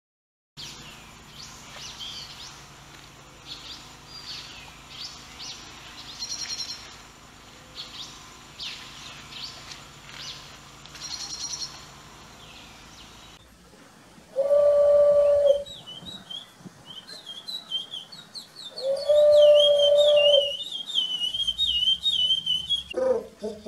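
Recorded birdsong. First comes a long series of repeated high, downward-sweeping whistled calls. About halfway through it changes to a fast, continuous warbling song, broken by two long, steady, low notes that are the loudest sounds.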